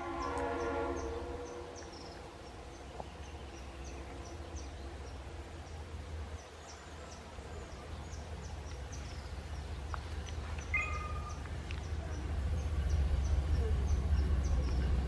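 Insects chirping in a steady, even rhythm, with a short bird call about two-thirds of the way in. A low rumble grows louder over the last few seconds.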